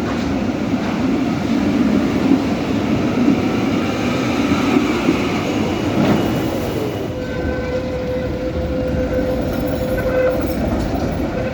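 Antwerp tram running on its rails with a steady rumble. About seven seconds in, a steady whine sets in and holds.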